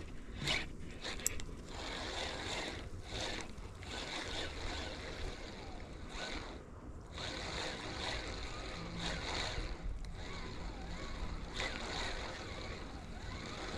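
Sea washing against shoreline rocks, its noise swelling and easing every few seconds, with a couple of faint knocks in the first second or two.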